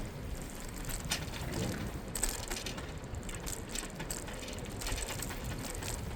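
Bicycle rear freewheel ticking as the rider coasts, with clicks over a low rumble of tyres and wind.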